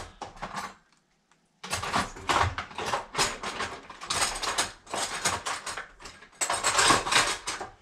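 Rapid, irregular clicking and clattering of hard kitchen objects being handled and knocked together, starting after a brief silence about a second and a half in.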